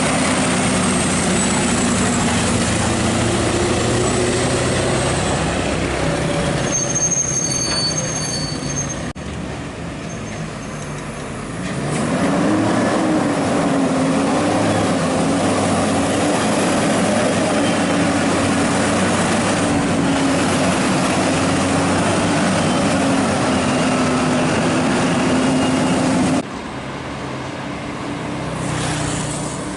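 Scania R580's V8 diesel engine running under load. It eases off for a few seconds, then pulls harder with a rising, wavering pitch. The sound drops off suddenly near the end.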